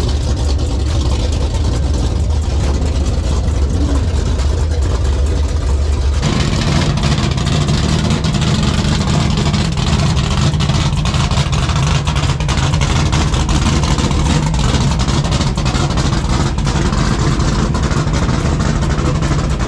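Steady vehicle engine and road noise: a deep rumble that switches abruptly about six seconds in to a somewhat higher steady hum.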